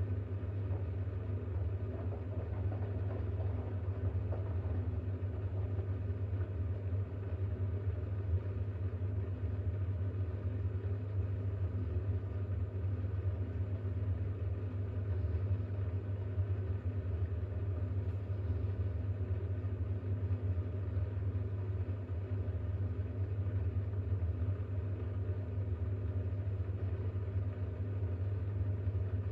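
Bosch WAX32GH1 washing machine running steadily with a low hum, in the drain-and-distribute stage of its cycle, where it is trying to balance the towel load for a spin.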